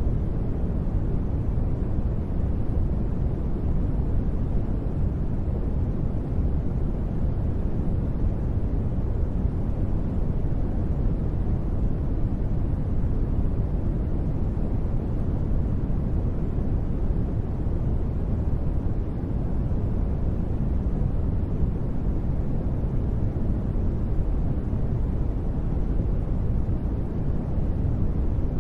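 Continuous steady noise for sleep: a deep, even hiss with most of its weight low down and little high treble, never changing.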